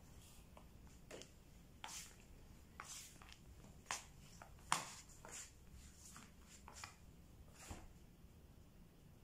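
Faint room tone with scattered soft clicks and rustles of handling, about eight in all, the sharpest one about halfway through.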